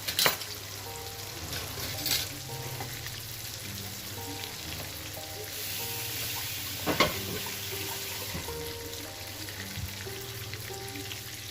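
Floured sardines frying in hot oil: a steady sizzle, with three sharp clicks along the way.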